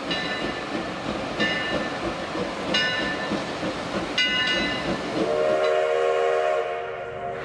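A passing train rumbling along the rails, with a short high metallic squeal from the wheels about every second and a half. From about five seconds in, the train's horn sounds as one steady chord-like blast.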